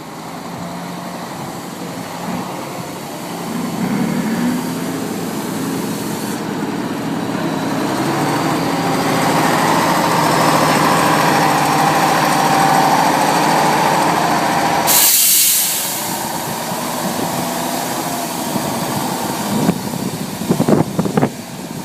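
Tatra 8x8 truck's diesel engine working under load, growing louder over the first several seconds and holding there. About two-thirds of the way through comes a short, sharp hiss, after which the engine drops back, with a few knocks and clunks near the end.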